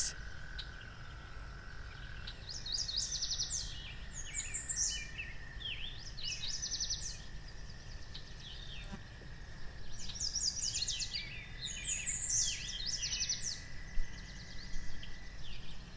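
Rainforest ambience: birds singing in bursts of quick repeated chirping phrases, over a steady high hum and a low background hiss.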